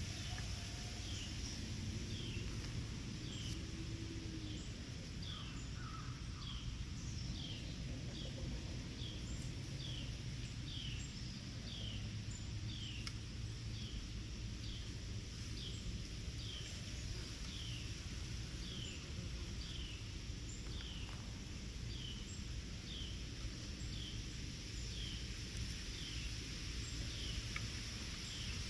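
Outdoor ambience: a short, high, falling chirp repeating steadily about one and a half times a second, over a low steady rumble and a faint high hiss.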